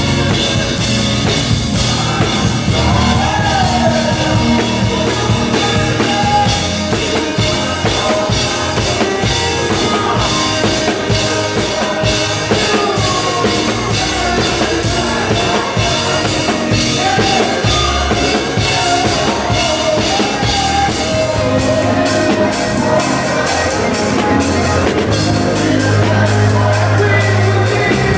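Worship music: voices singing over a band with drum kit, continuous and loud.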